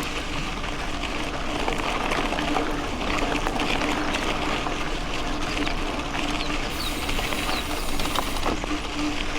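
Mountain bike rolling along a dirt road: tyres crackling over gravel and loose earth under a steady rushing noise, with a faint hum that comes and goes.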